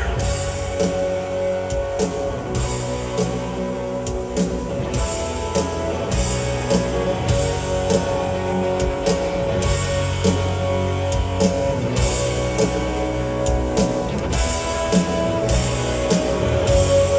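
Live rock band playing through a stadium PA: electric guitars over a drum kit, with a held guitar note and steady drum hits.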